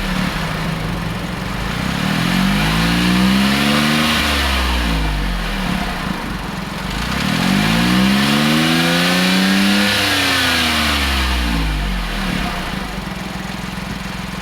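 Honda S660's small turbocharged three-cylinder engine and exhaust revved twice, the pitch climbing for about two seconds and falling back each time, then settling to a steady idle near the end.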